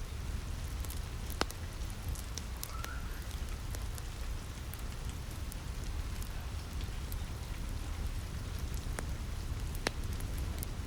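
Steady rain pattering on a roof, with a low rumble underneath. Sharp pops and crackles from a wood fire in a fireplace come at irregular moments, two of them louder than the rest.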